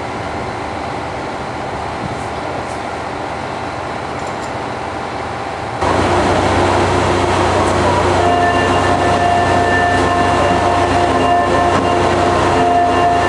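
Running sound heard aboard a JR 485-series electric multiple unit: a steady rumble that jumps abruptly louder about six seconds in. A couple of seconds later, several steady whining tones join it.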